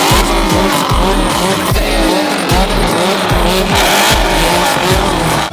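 Car doing a burnout: engine revving hard in repeated falling surges, nearly two a second, with tyres squealing on the floor.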